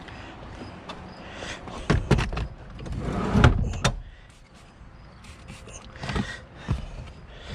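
Handling noises from a car interior being worked on: a couple of sharp knocks, then a longer sliding, rubbing sound that swells and stops, and two more clicks near the end.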